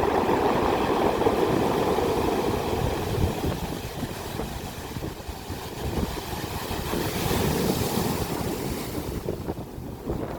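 Ocean waves breaking and surging onto the shore in a continuous rushing wash, with a brighter hiss of foaming water swelling about seven to nine seconds in.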